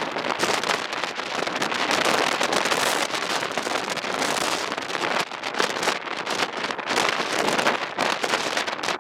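Strong blizzard wind buffeting the microphone: a dense, uneven rush of noise that gusts and flutters, with a few brief lulls.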